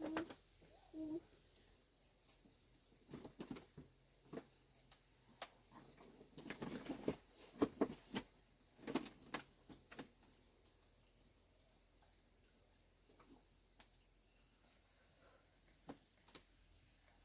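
Steady, high-pitched chirring of insects, with scattered light clicks and knocks during the first half.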